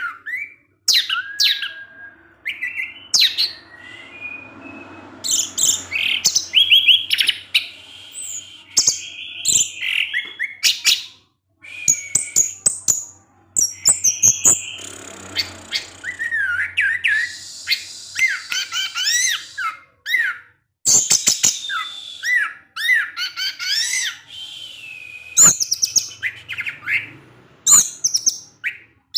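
Orange-headed thrush (anis merah) singing a long run of rapid, varied chirps and twittering, gliding phrases in the 'ngecipngecis' style, broken by a few brief pauses.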